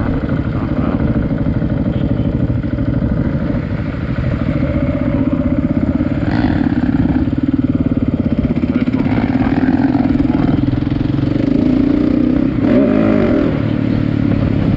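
Dirt bike engine running steadily under way, its pitch wavering briefly about thirteen seconds in.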